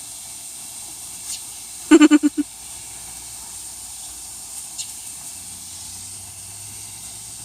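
Steady background hiss. About two seconds in, a short burst of five quick pitched calls. A low vehicle engine hum comes in after about five seconds.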